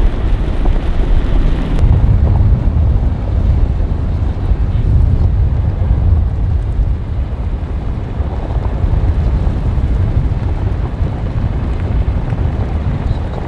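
Wind buffeting the microphone over the steady rumble of a truck on the move.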